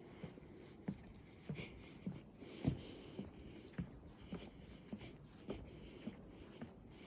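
Footsteps on a wooden boardwalk trail, an even walking pace of short thumps a little under two a second, one somewhat heavier step a few seconds in.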